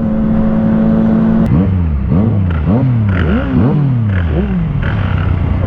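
Motorcycle engine held at a steady rev, then blipped about five times in quick succession, each rev rising and dropping back, before settling to idle near the end. The exhaust has a tiny sound.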